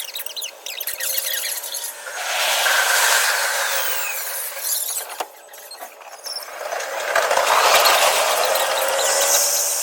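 Tokyu 5050 series 4000 electric train running, with metallic wheel squeal that swells about two seconds in and again around seven seconds. The audio is played at double speed.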